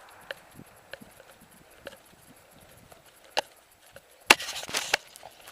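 A few scattered sharp knocks and clicks, then, a little over four seconds in, under a second of loud, dense crackling and rattling.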